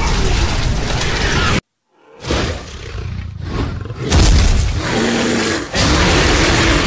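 Loud animal roaring sound effects in a string of edited clips: the first cuts off abruptly about one and a half seconds in, and after a brief silence more roaring follows, with a heavy low thud about four seconds in.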